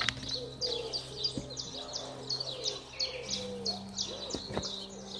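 Birds chirping: a steady run of short, high chirps, two or three a second, with lower arching notes beneath and a faint steady low hum.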